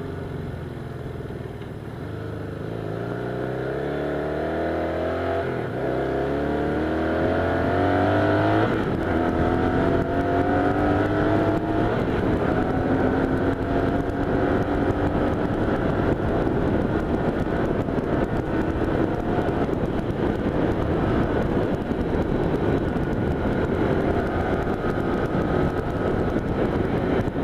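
1978 Honda Hawk 400 parallel-twin motorcycle engine accelerating through the gears, its pitch climbing in each gear and dropping at each of three upshifts. It then holds a steady pitch at cruising speed under growing wind and road noise.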